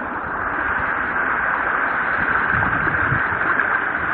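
Steady rushing of a fast-flowing river, picked up as an even hiss by a smartphone microphone.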